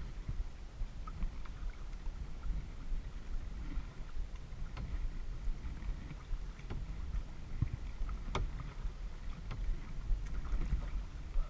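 Kayak paddling on a lake: scattered small splashes, drips and taps of the paddle and water against the hull, over a steady low rumble of wind on the action camera's microphone.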